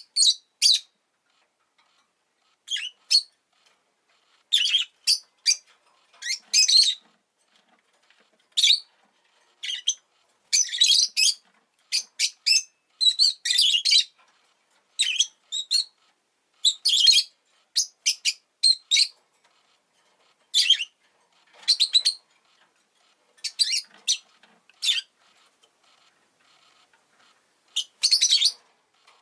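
Rosy-faced lovebird chirping: short, sharp, high-pitched calls in irregular bursts, sometimes singly and sometimes in quick runs of several, with quiet gaps between.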